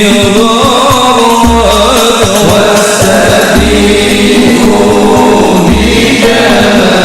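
Devotional sholawat chanting: a voice sings long, ornamented melodic lines over percussion accompaniment, with short drum strikes and a deep low note about every two seconds.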